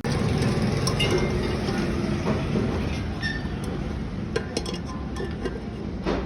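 Metallic clinking and rattling over a steady mechanical noise, starting abruptly.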